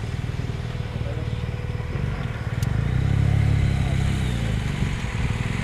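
A motorcycle engine running close by, its low steady note swelling louder for a couple of seconds midway before settling again.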